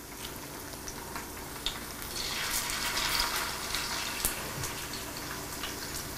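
Potato cakes sizzling in hot olive oil in an electric skillet, the sizzle swelling about two seconds in as another cake is set into the pan, with a couple of light knocks. The steady sizzle shows the oil is hot enough to fry.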